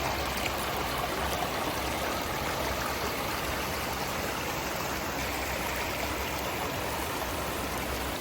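Steady rush of flowing water from a creek.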